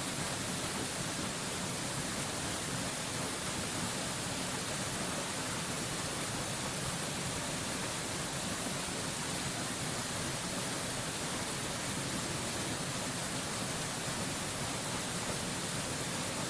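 Waterfall's falling water making a steady, unbroken rush with a strong high hiss, unchanging throughout.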